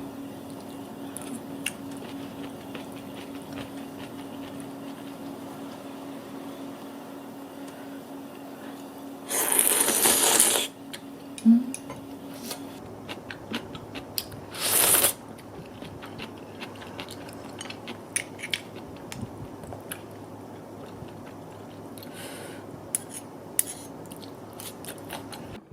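Cooking at the stove: small clicks and scrapes of a utensil working in a pan, with two loud hissing bursts of about a second each, about ten and fifteen seconds in, over a steady low hum.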